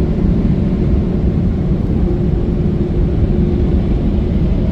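Steady low rumble heard from inside a car at the end of an automatic car wash. A faint steady hum joins in about two seconds in.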